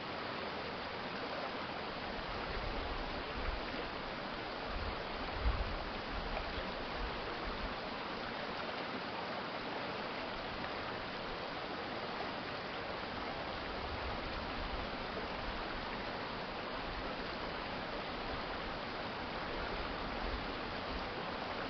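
Steady rushing of an urban stream's flowing water, with a few brief low rumbles about three to seven seconds in.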